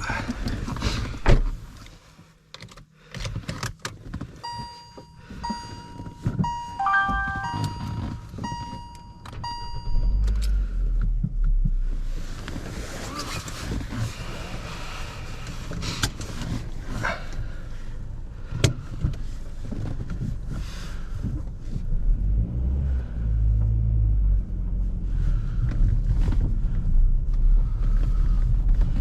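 Car sounds: clicks and thumps, then a run of short electronic beeps for about five seconds, then a steady low engine rumble with road noise.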